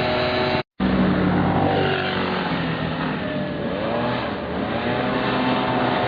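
Motor vehicle engines running steadily, with their pitch rising and falling in the middle. The sound cuts out completely for a moment less than a second in.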